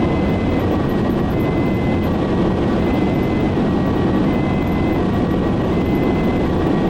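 Steady road and engine noise inside a speeding ambulance, with its two-tone siren faintly heard through the cabin, switching between its high and low notes about every three quarters of a second.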